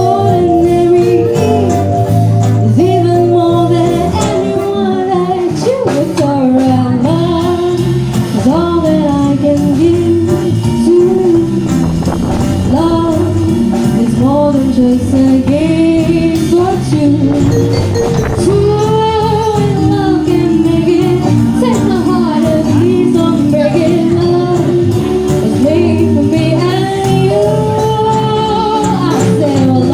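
Live band performing an upbeat song: a female lead vocal over keyboard, bass, drums, guitar and brass, played steadily with no break.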